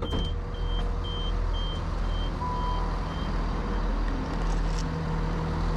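Steady rumble of a train on the move, with a row of short electronic beeps, about two a second, that fade away over a few seconds.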